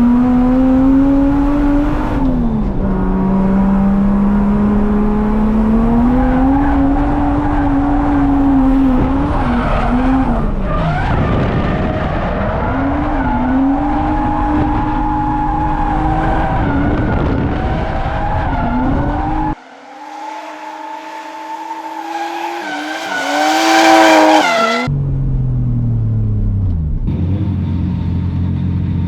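A drift car's engine revving up and down through slides, with tyres skidding and squealing. The sound changes abruptly twice: about two-thirds of the way in, when the low end drops away and a higher rev climbs to the loudest point, and again a few seconds later.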